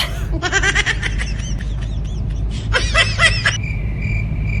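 A woman laughing in two bursts over the steady low rumble of a moving car's engine and road noise, heard inside the car; a steady high tone comes in near the end.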